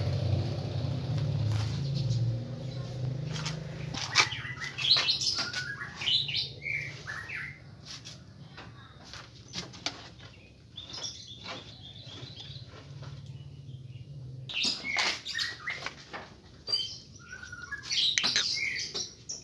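Small birds chirping in short, quick calls, with scattered knocks in between. A low steady hum stops about fourteen seconds in.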